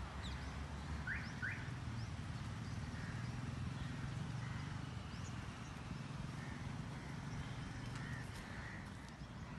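Outdoor birds calling: two short rising calls about a second in, then scattered small chirps, over a steady low rumble.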